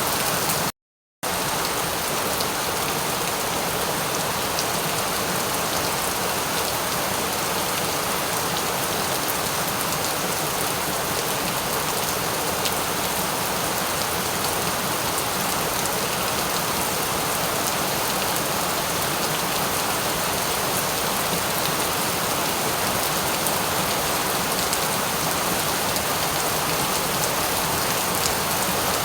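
Steady rain falling, an even hiss with scattered drop ticks, broken by a brief dropout to silence about a second in.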